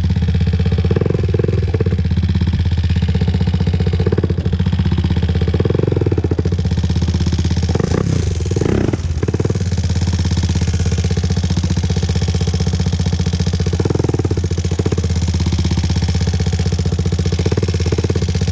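2001 Honda TRX400EX ATV's single-cylinder four-stroke engine running under way, its pitch rising and falling with repeated throttle changes, with the strongest surge about eight to nine seconds in.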